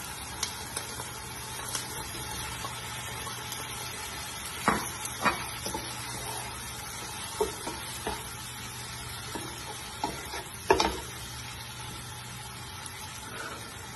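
Shrimp frying with garlic and onion in a non-stick pot, a steady sizzle, while a wooden spoon stirs them and knocks against the pot now and then, the loudest knock about eleven seconds in.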